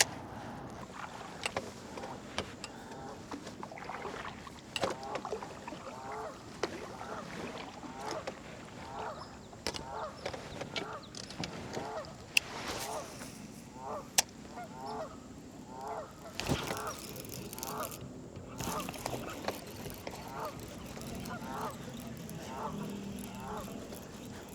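Geese honking, many short calls repeated over and over, with a few sharp clicks in between.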